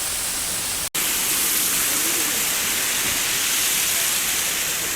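Water pouring down a man-made waterfall: a steady rushing hiss that cuts out for an instant about a second in.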